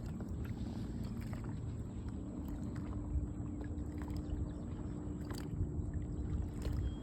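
Water moving around a kayak with a person floating beside it: a steady low rumble with a few faint knocks.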